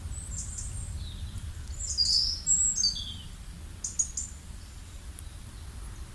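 Small birds chirping in short, high calls and brief falling notes, busiest and loudest about two to three seconds in, over a steady low background rumble.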